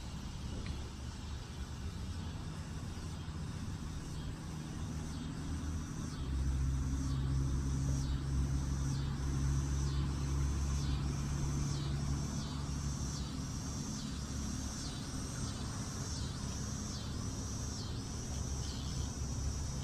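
Low steady rumble that grows louder about six seconds in. Over it, a high chirp repeats about once a second.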